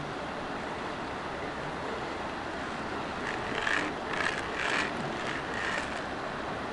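Steady rush of flowing stream water, with a run of about six short sloshing swishes from about halfway on, as a gold pan of gravel and water is worked.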